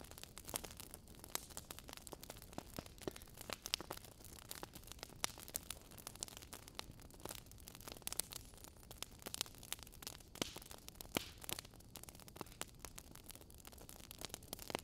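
Fireplace fire crackling: irregular sharp pops and snaps over a soft hiss.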